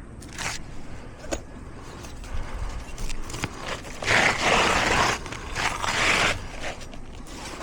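An asphalt 3-tab shingle scraping and rustling against the roof as it is pried and pulled loose by hand. There are two longer scrapes, about four and six seconds in, and scattered short clicks and knocks.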